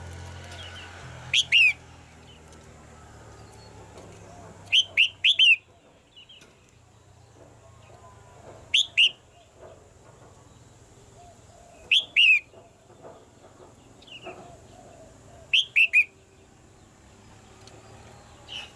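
Red-whiskered bulbul calling in short, loud phrases of two to four quick chirping notes. The phrases repeat about every three to four seconds, five times, with fainter bird sounds between them.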